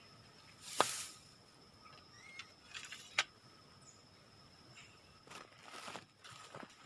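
Several sharp knocks or snaps, the loudest about a second in and another near the middle, with rustling in the second half, over a faint steady insect drone.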